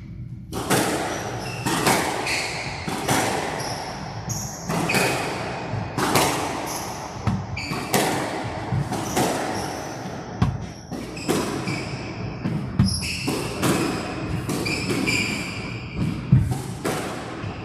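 Squash rally: the ball cracks off rackets and the walls in a quick run of sharp hits, about one a second, with short high squeaks from the players' shoes on the court floor.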